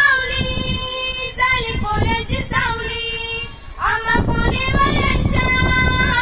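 A young girl singing unaccompanied, holding long notes that bend and slide between pitches, with a brief break just before halfway. A steady low rumble runs underneath.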